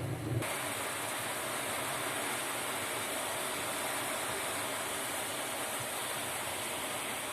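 Heavy rain pouring down steadily in a thunderstorm downpour, with a brief low rumble at the very start.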